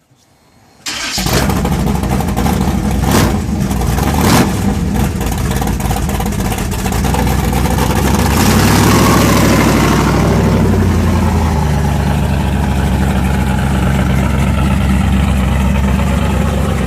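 Big-block 454 V8 of a 1987 Chevy pickup, built to about 790 hp, starting about a second in and blipped sharply a couple of times. It then revs up and back down once, and settles into steady running.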